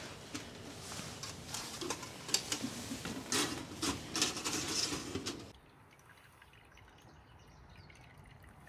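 Water dripping and splashing, with irregular sharp clicks and knocks, cutting off abruptly about five and a half seconds in and leaving a faint quiet background.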